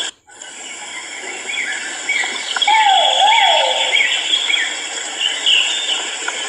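Great argus pheasant (kuau) calling: a loud, wavering two-note call, with a run of short, higher rising notes around it, over a steady high hiss. The sound cuts out briefly just after the start.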